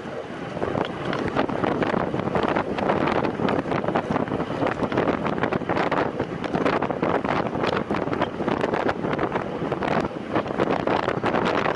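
Wind buffeting the microphone while riding a time-trial bicycle at race speed: a steady rushing noise with constant gusty crackle and flutter.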